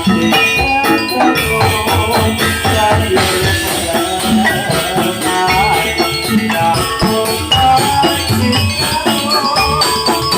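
Javanese gamelan music for a jathilan horse dance, played loud and continuous: tuned metal percussion and drums with rattling, jingling percussion over them.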